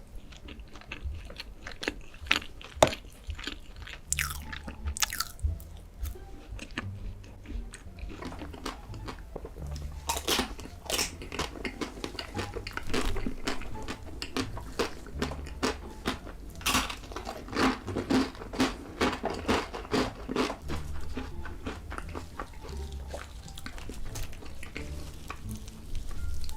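A person biting and chewing crunchy chocolate close to the microphone, in the mukbang ASMR style: many sharp, irregular crunches, densest in the middle stretch.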